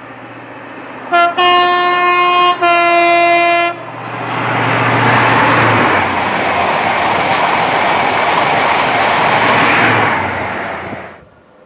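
Train horn: a short toot, then two long blasts, the second slightly lower. Then a train passes at speed for about seven seconds, a loud steady rush of wheels and air that fades away near the end.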